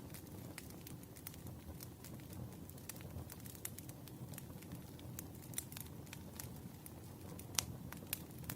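Campfire crackling: irregular sharp pops and snaps over a low, steady rumble of burning, with one louder pop near the end.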